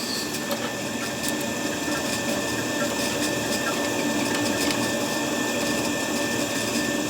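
A workshop machine running steadily: an even mechanical noise with a few faint constant tones.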